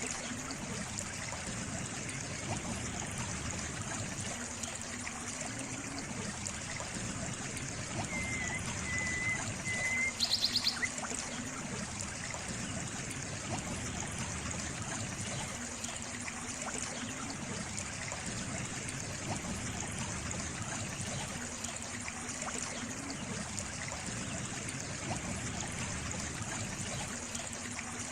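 Water trickling and running steadily, like a small stream. About ten seconds in, a brief thin high tone is followed by a short rapid series of sharp clicks.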